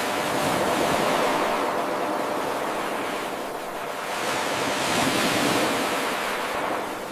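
Ocean waves washing on a shore: a steady rushing noise that swells twice and eases off in between, starting with an abrupt jump in level where the eight-second recording loops.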